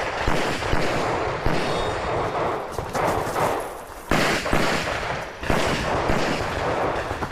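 A 2011-style competition pistol fired in rapid strings during a practical-shooting stage run, with brief pauses between strings.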